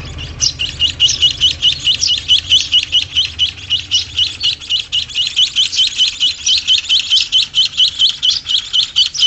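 White-headed munias (emprit haji) chirping rapidly, a steady run of short high chirps at about four to five a second, with a few higher chirps from other birds overlapping.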